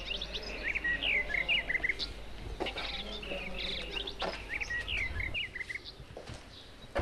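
Small birds chirping busily, with many quick short chirps that thin out about five seconds in.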